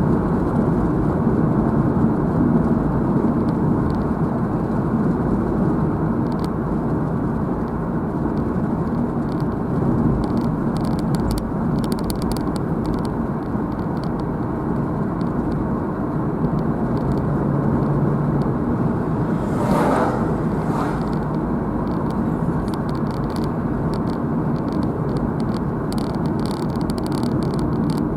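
Car driving along a road, heard from inside the car: steady tyre and engine noise with a brief swell about twenty seconds in.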